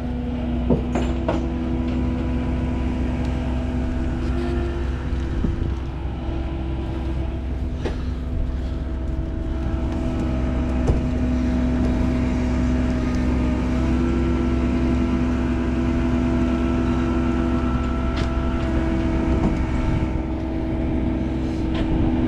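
Tow truck's engine running with its winch pulling, a steady low rumble under a constant mechanical whine, with a few sharp clanks along the way.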